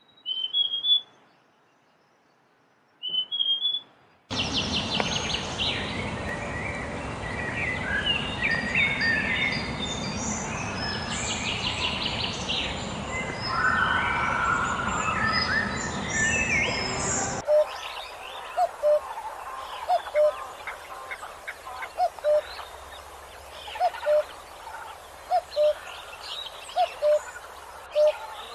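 Wild tropical forest birds calling. Two short rising chirps come first, then a dense chorus of many overlapping songs and calls. Near the middle the recording changes to a run of short, low single notes about once a second under scattered high chirps.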